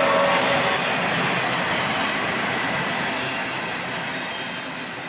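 CSX intermodal freight train's double-stacked container well cars rolling past on the rails, the wheel-and-car noise fading steadily away.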